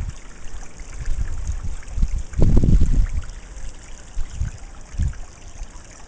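Small rock-garden waterfall, water splashing and trickling steadily over the rocks, with bursts of low rumble on the microphone, the strongest about two and a half seconds in.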